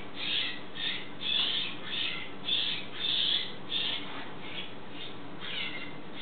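Baby jays giving repeated harsh, raspy begging calls, about two a second, growing weaker over the last couple of seconds.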